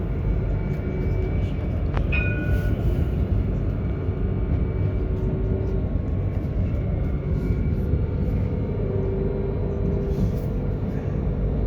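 Alstom tram running, heard from the driver's cab: a steady low rumble of the tram on the rails, with a click and a short beep about two seconds in.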